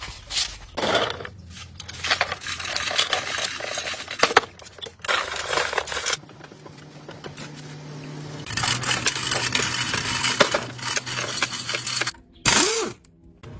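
Metal tools and parts clinking and scraping against each other during hand repair work on tractor parts, with a low steady hum through the middle.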